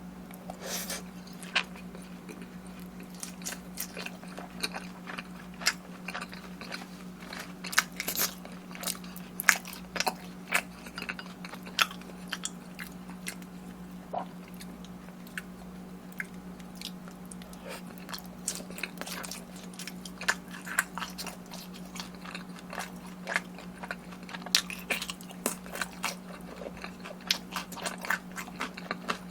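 Close-miked eating: repeated crisp bites and chewing, with crunching of sauce-coated boneless fried chicken, irregular and continuous over a faint steady low hum.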